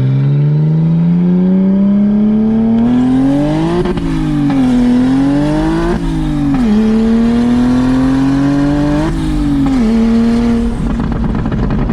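800 hp big-turbo BMW N54 straight-six pulling hard under full throttle: its pitch climbs steadily, drops sharply at each upshift, and climbs again, about three times. Near the end the steady pull gives way to a rough crackling.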